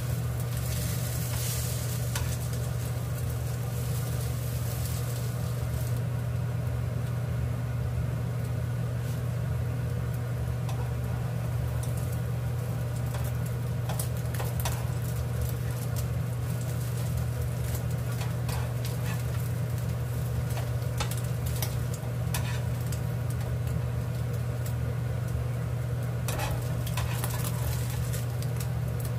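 Egg-soaked slices of bread frying in a nonstick pan, sizzling steadily over a low hum. There are occasional clicks of metal tongs against the pan as the slices are turned and lifted.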